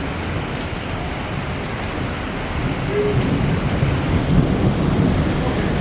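Heavy rain pouring down in a thunderstorm, a steady hiss, with a low rumble of thunder building about halfway through and staying loud.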